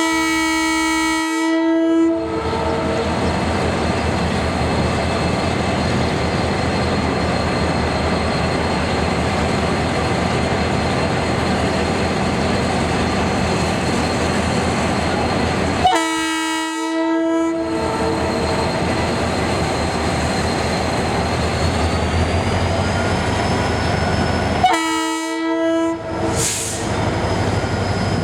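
Train horn sounding three times: two blasts of about a second and a half, and a shorter one near the end. Between them a locomotive's engine and the train run steadily.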